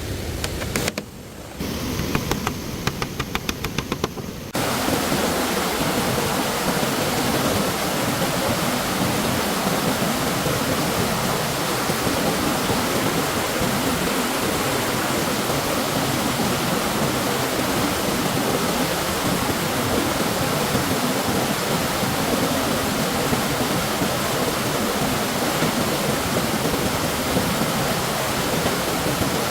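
Steady rush of stream water, starting abruptly about four and a half seconds in. Before it comes a short quieter stretch with a run of rapid clicks.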